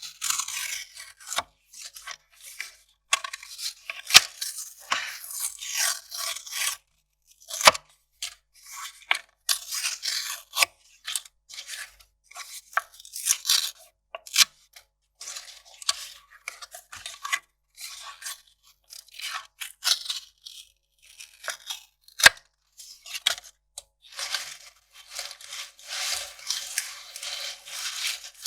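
Kraft paper being ripped and crinkled by hand, in irregular bursts of tearing and rustling with a few sharp clicks. The rustling grows denser near the end.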